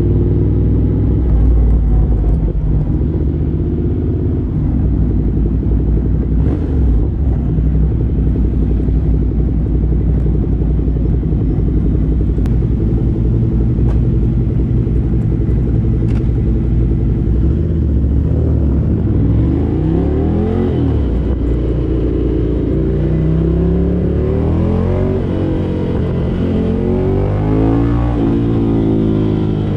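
2017 Ducati Monster 797's air-cooled L-twin engine running through a LeoVince LV-10 exhaust. It holds a steady pitch for most of the first half, then rises and falls in pitch several times as the engine is revved up and eased off.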